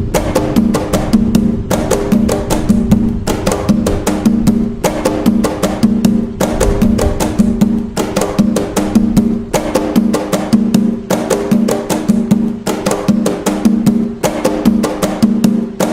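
Atabaque hand drums playing the Umbanda toque de nagô: rapid, continuous hand strokes with a ringing drum-head pitch, in a rhythmic cycle that repeats about every one and a half seconds.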